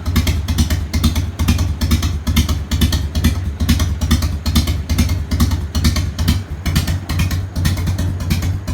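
Harley-Davidson Fat Boy's V-twin idling through a rebuilt Screaming Eagle dual exhaust: a loud, steady, rapid beat of exhaust pulses over a deep rumble.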